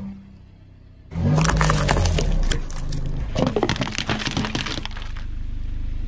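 A car tyre rolling over and crushing brittle objects: dense crunching and cracking starts suddenly about a second in over a low rumble, with a second run of cracks a couple of seconds later.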